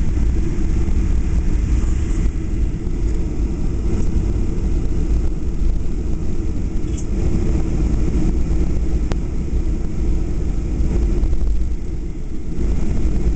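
Cabin noise inside a Boeing 737-800 on the ground after landing: the steady low rumble of its CFM56 jet engines at idle and the airframe while taxiing, dipping briefly near the end.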